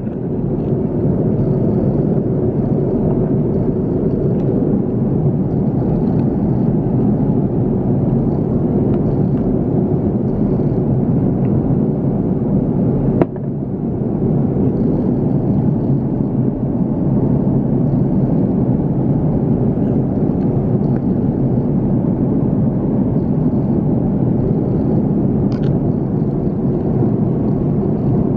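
Steady roar of an Airbus A350-900's Rolls-Royce Trent XWB engines and the airflow, as heard aboard. About 13 seconds in there is a single click and a brief drop in level, then the noise builds back up.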